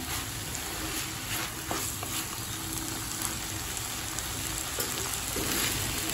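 Chopped cluster beans sizzling as they stir-fry in an earthen clay pan, with a spatula stirring and scraping through them in repeated strokes over a steady frying hiss.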